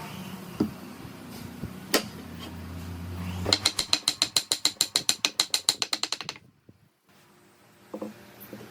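A ratcheting mechanism clicking rapidly, about nine clicks a second for nearly three seconds, starting about halfway in and then stopping. It is preceded by a low steady hum and a single sharp knock.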